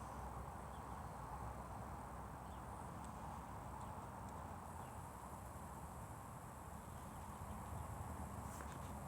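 Faint outdoor ambience: a low, steady background rumble with a few faint clicks near the end.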